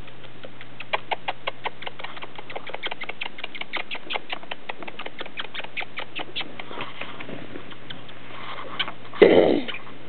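Quaker parrot making a quick run of small, dry clicks, several a second, for a few seconds, then a short, louder sound near the end.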